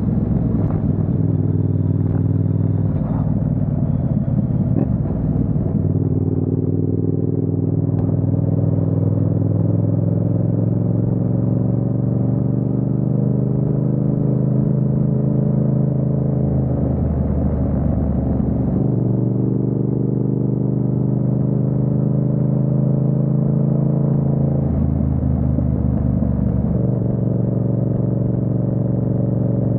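Yamaha MT-07 parallel-twin engine running under way, its steady note climbing slowly in pitch, with two brief changes in the sound partway through.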